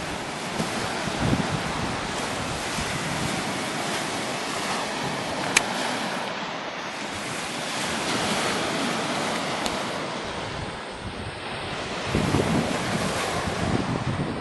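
Baltic Sea surf washing on the shore, with wind buffeting the microphone in gusts near the start and again near the end. A single sharp crack sounds about five and a half seconds in.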